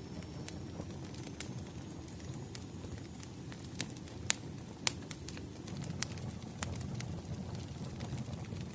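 Wood fire crackling: a steady low rumble of burning logs with sharp, irregular pops and snaps.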